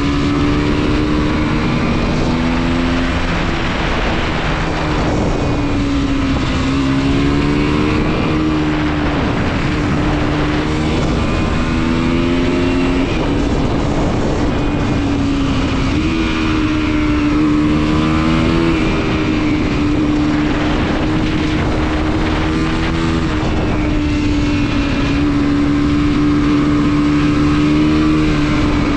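Mondial SMX 125 motorcycle's 125 cc single-cylinder four-stroke engine under way, its pitch climbing and then dropping abruptly several times as it is revved through the gears, with steadier stretches at a constant speed between.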